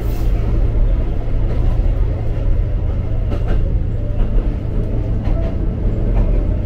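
Electric train running along the track, heard inside the driver's cab: a steady low rumble from the wheels and running gear, with a few faint clicks from the rails partway through.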